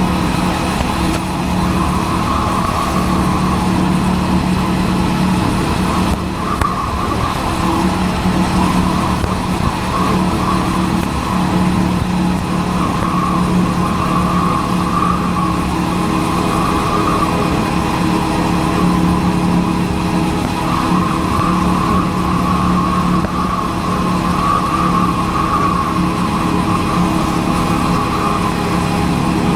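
Motorcycle engine running at a steady cruising speed, its note holding level with a brief dip about six seconds in, under a low rush of wind on the helmet-mounted microphone.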